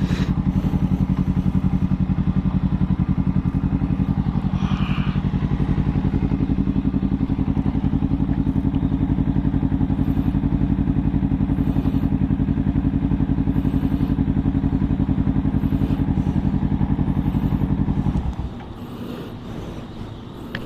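Motorcycle engine idling steadily with an even pulse, then switched off about 18 seconds in.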